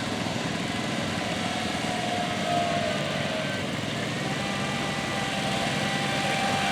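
A small engine running steadily at high revs, with a faint whine over it, typical of a garden tractor under load.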